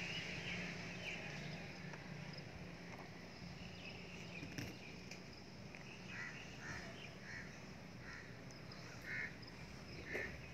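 Quiet outdoor ambience with a bird calling faintly, a short run of repeated calls a little past the middle. A low rumble fades away at the start.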